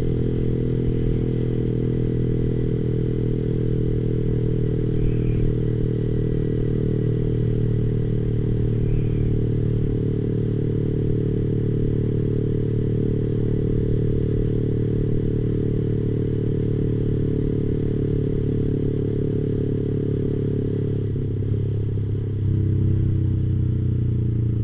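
Yamaha R15 V3's single-cylinder engine running at a steady speed through a clone Arrow racing exhaust, a low, even exhaust note. About 22 seconds in the pitch shifts slightly and it gets a little louder.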